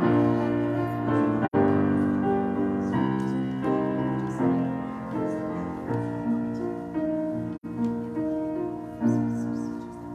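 Piano playing slow struck chords that ring and die away, a prelude-style piece. The sound drops out completely for an instant twice, about one and a half seconds in and again near eight seconds in.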